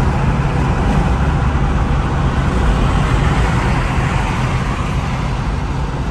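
Inside-cabin sound of a 2007 Infiniti G35 Coupe cruising with the windows up. Its 3.5-litre V6 drones steadily through the Motordyne exhaust over road and tyre noise.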